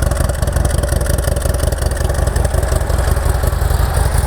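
2009 Harley-Davidson CVO Ultra Classic's Twin Cam 110 V-twin engine idling steadily, running through a Vance & Hines X-pipe exhaust.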